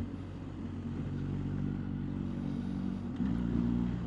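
BMW R1250GS boxer-twin engine running steadily at road speed, with wind rush over the bike; the engine note steps up and grows a little louder about three seconds in.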